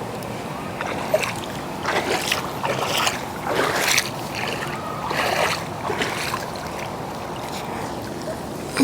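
Shallow lake water splashing and sloshing in a few irregular bursts through the middle, over a steady background of moving water.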